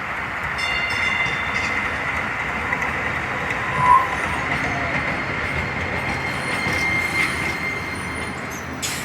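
Passenger train running on rails with a thin, steady wheel squeal held through most of the stretch and a brief louder squeal about four seconds in.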